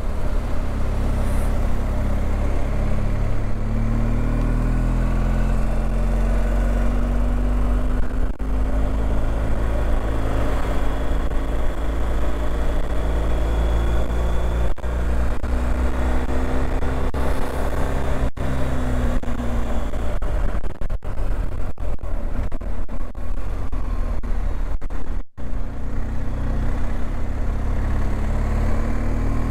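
BMW R 1250 GS Adventure's boxer-twin engine pulling uphill, its pitch rising and falling with throttle and gear changes, under a steady rush of wind. The sound drops out for an instant a few times near the end.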